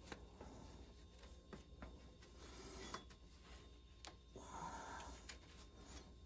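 Faint rustling and a few light clicks: the engine's drive belt being handled and worked onto its pulleys by hand.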